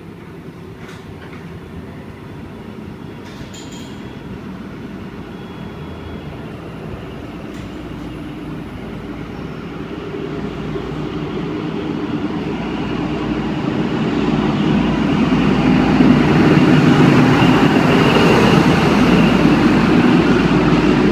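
Diesel-electric XPT train pulling out of the station, growing steadily louder as the rear power car's engine draws near, then staying loud for the last few seconds.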